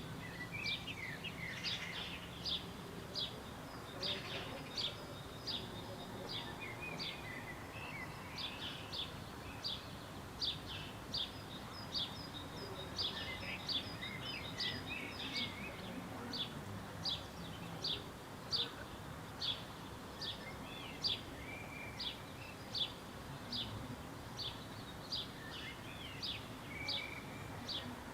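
Birdsong: a bird repeats short, high, downward-sweeping chirps about once a second, with softer warbling from other birds underneath and a faint steady background hiss.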